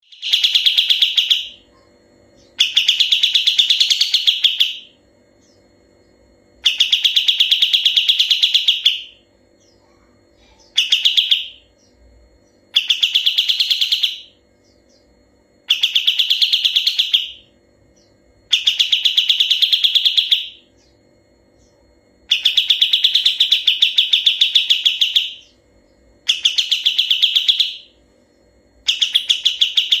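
Kapas tembak bulbul singing its long, clear rolling trill (ngebren), a fast rattling song repeated in bursts of one to three seconds with short pauses between. A faint steady hum lies underneath.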